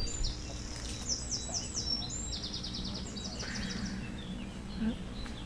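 A small songbird singing a fast, varied song of high, quickly repeated sweeping notes, which stops about three and a half seconds in, over a steady low background rumble.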